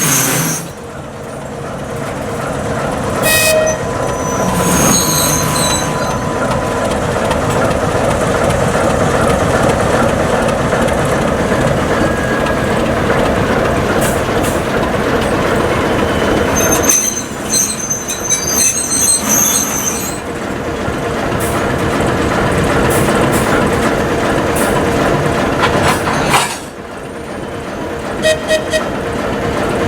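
ChME3T shunting locomotive's six-cylinder diesel engine running steadily as it moves slowly along the track. High wheel or brake squeals come several times.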